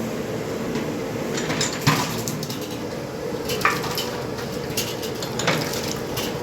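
Metal utensils clanking against pots and dishes: three sharper clanks, about two seconds in, midway and near the end, one with a brief ring, among lighter clicks over a steady background noise.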